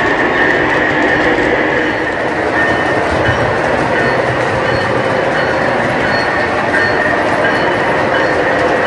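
O-gauge model trains running on the layout track: a steady, continuous rumble of wheels and motors on the rails, with a faint steady high hum over it.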